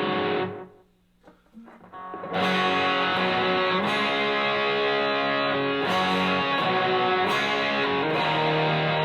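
Electric guitar through a Donner Morpher distortion pedal in its natural mode, gain and tone at noon, played into a Fender Blues Deluxe amp. A distorted chord is cut off about half a second in, and after a short gap, chords are strummed from about two seconds in, changing every second or two.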